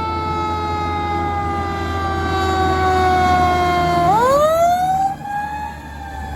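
Fire truck siren wailing: its pitch falls slowly for about four seconds, then rises quickly and begins falling again, with a steady low engine rumble underneath.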